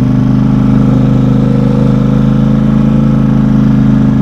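Engine of a four-wheel-drive vehicle running at a steady, even speed while driving, heard from on board.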